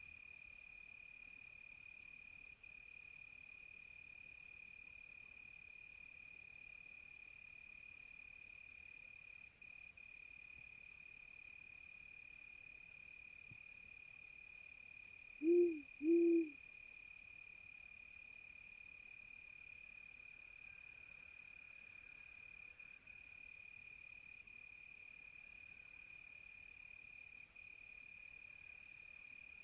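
Crickets trilling steadily on one high note, with other insects in the background. About halfway through, an owl hoots twice, short low hoots well above the crickets in level.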